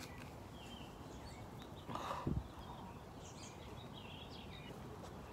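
Quiet outdoor background with small birds chirping now and then. There is one short, soft noise about two seconds in.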